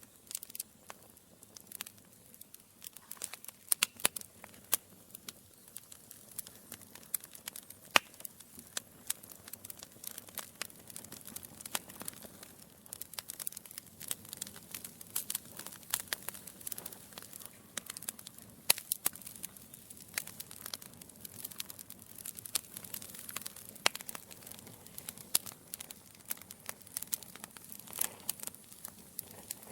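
Logs burning in a fireplace, crackling: irregular sharp pops and snaps over a soft, steady hiss of the fire, with a couple of louder snaps about 8 and 19 seconds in.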